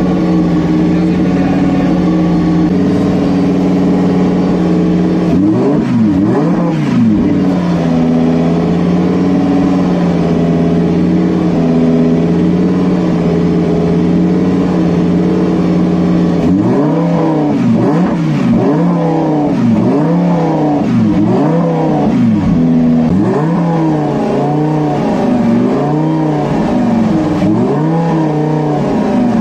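Tuned car engine idling loudly, revved up and down a couple of times about six seconds in, then blipped again and again, roughly once a second, through the second half.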